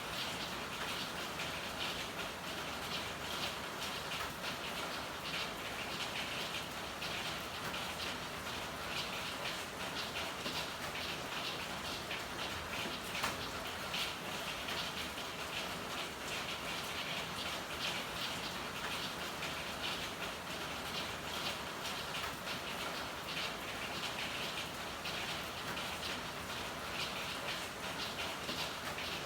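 Steady rain falling in an alley: an even hiss thick with small drop ticks on hard surfaces. One sharper, louder tick comes about halfway through.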